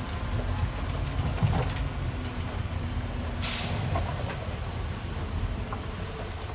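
Heavy diesel construction machinery running steadily with a low rumble, with a few faint knocks early on and a short burst of hiss a little past halfway.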